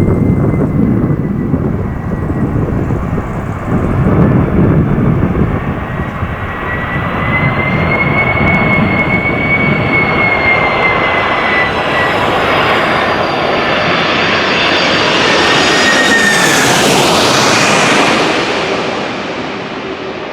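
Wide-body jet airliner's engines whining over a loud rumble as it passes close by on landing. Near the end the whine drops in pitch as the aircraft goes past, and the sound fades.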